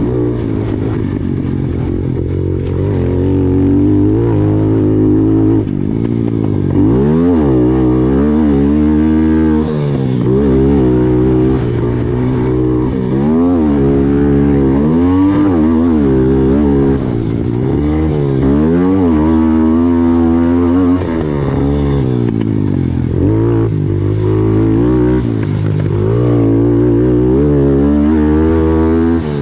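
Pit bikes racing: small motorcycle engines rev up and fall back again and again as they accelerate and shift, over a steady drone from more engines.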